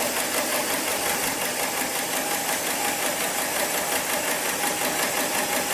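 Heavy-duty programmable pattern sewing machine for slings and straps running steadily, its needle mechanism making a fast, even clatter.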